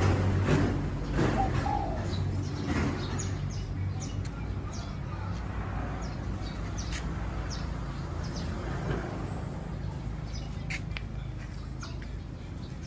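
Birds calling, many short high chirps scattered through, over a steady low hum.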